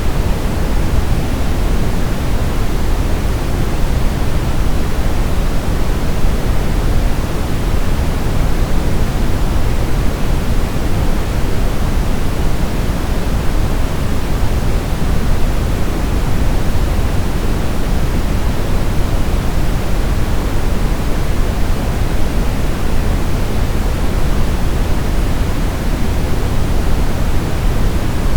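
Brown noise: a steady, deep rushing noise, heaviest in the bass and rolling off toward the treble, with no changes.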